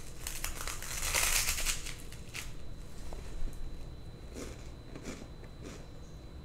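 Biting into a crunchy bread sandwich and chewing it: a crackling crunch from about half a second to two and a half seconds in, then fainter, scattered chewing clicks.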